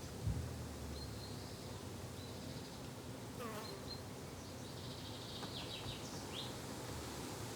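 Summer garden ambience: insects such as bees buzzing steadily, with birds chirping in short high calls and one downward-sliding call about three and a half seconds in. A brief low thump just after the start.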